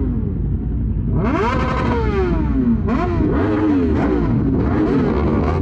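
Sport motorcycle engines revving over a steady low rumble. Their pitch climbs quickly and sinks back several times as the throttle is opened and rolled off.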